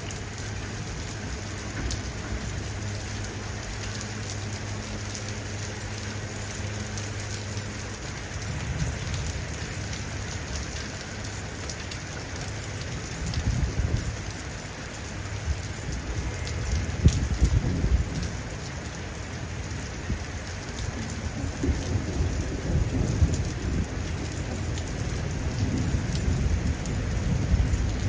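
Steady rain falling, with rolling thunder rumbling in low swells from about halfway through, strongest briefly around two-thirds of the way in and again near the end.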